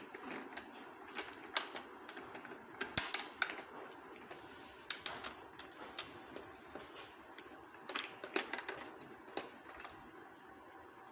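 Irregular clicks and taps of a child's hands and toy tools working on a toy fire truck, some sharp and louder, at an uneven pace.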